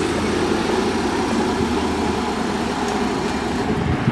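Porsche Panamera Turbo's 4.8-litre twin-turbo V8 idling steadily.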